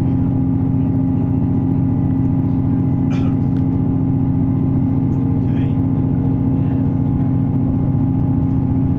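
Passenger train running along the line, heard from inside the carriage: a steady low rumble with a constant droning hum.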